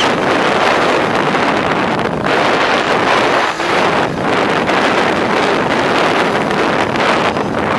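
Wind rushing over the microphone of a camera riding on a flying Twinstar II RC plane: a loud, steady rushing noise with no distinct motor tone standing out.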